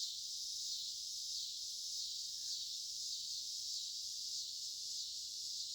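Chorus of cicadas singing, a steady high-pitched buzzing drone.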